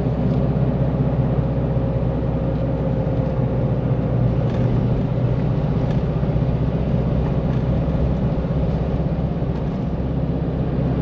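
Nissan Navara's engine and tyre noise heard from inside the cab, a steady low drone while towing a heavily loaded caravan up a long climb.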